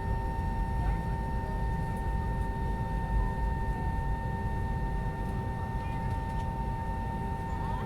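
Cabin noise of an Airbus A320 taxiing after landing: a steady low rumble with a constant whine from its IAE V2527 engines at idle.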